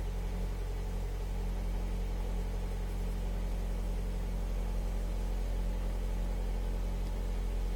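Toyota Corolla E11's 1.4-litre VVT-i four-cylinder petrol engine idling steadily, still cold, shortly after a cold start at −6 °C.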